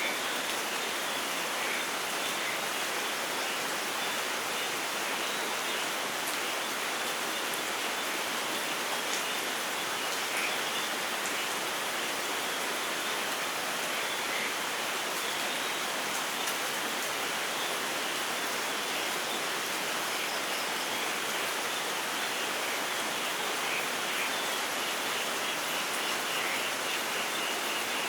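Steady light rain falling, an even hiss with no let-up, with a few short bird chirps here and there and a quick run of chirps near the end.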